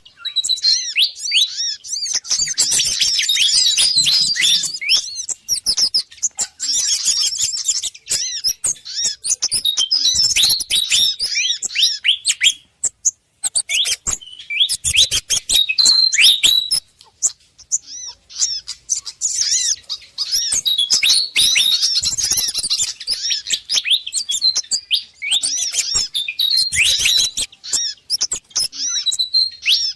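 Bird-lure recording of small birds calling agitatedly: the pied fantail (sikatan kipas) mixed with sogon and kemade calls. Rapid, high chirps and twitters come in dense runs, with short breaks about 13 and 17 seconds in.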